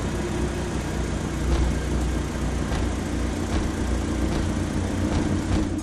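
A vehicle engine sound effect running steadily, a low, even drone with a faint held hum above it.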